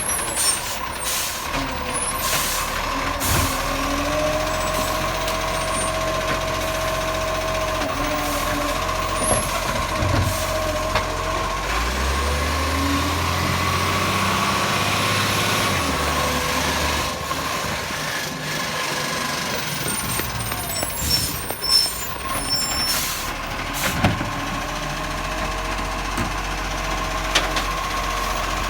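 Bucher-bodied recycling garbage truck working: its engine runs and revs up for a few seconds partway through, over a steady whine. Air-brake hisses and sharp knocks come and go.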